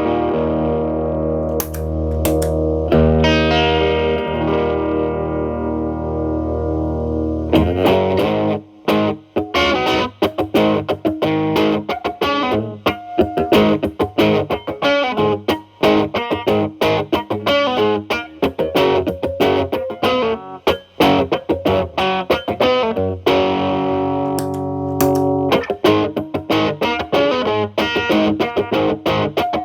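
Telecaster played through an MI Audio Crunch Box distortion pedal into a Marshall Valvestate amp's clean channel, with the pedal set around gain 9 and the distortion cleaned up. The opening is ringing, sustained chords; about eight seconds in the playing turns to fast, choppy picked notes, with held chords again near the middle of the second half.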